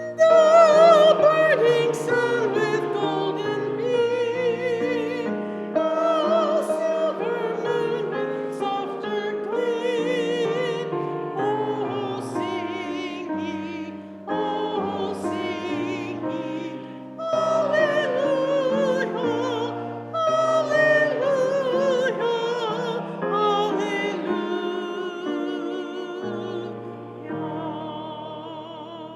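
A congregation sings a hymn with piano accompaniment. The voices carry a marked vibrato, and the singing falls into phrases with brief breaths between them.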